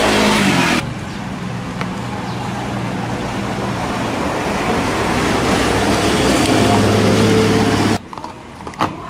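Motor vehicle engines running, like passing road traffic, with a falling engine pitch in the first second; the noise cuts off abruptly near the end, followed by a single click.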